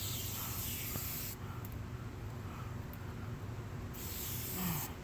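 Aerosol chain degreaser sprayed onto a motorcycle chain in two hissing bursts: one of about a second and a half, then a shorter one about four seconds in.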